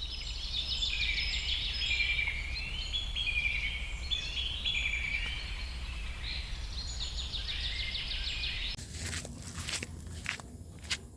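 Several birds chirping and singing in quick trills and short stepped phrases, over a low steady rumble. The calls stop abruptly about nine seconds in, followed by a few sharp clicks.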